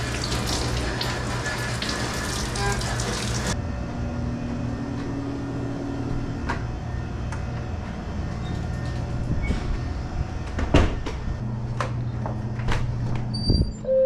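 A steady low hum, with a hiss that cuts off abruptly about three and a half seconds in, and a few scattered knocks and clicks in the second half.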